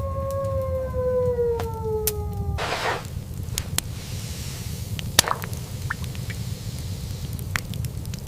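A wolf howling: one long call that slowly falls in pitch and ends about two and a half seconds in. Under it runs a steady low rush of blizzard wind, with scattered sharp clicks and a brief burst of noise as the howl stops.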